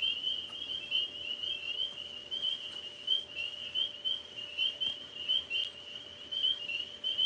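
A chorus of tree frogs calling, with many short, high, whistled peeps overlapping several times a second without a break.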